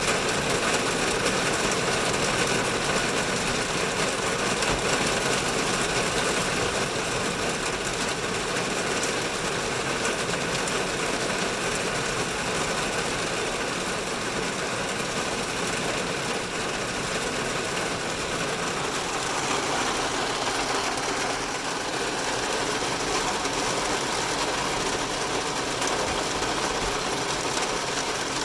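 Heavy rain drumming on a car's roof and windows, heard from inside the car: a dense, steady patter that keeps an even level.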